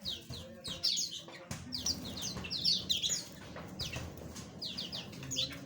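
Small aviary birds chirping, many short, quick falling chirps overlapping one another, over a low background rumble.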